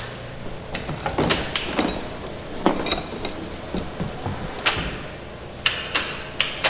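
Irregular metal clanks and knocks from equipment being handled and fitted, several sharp strikes close together in the second half.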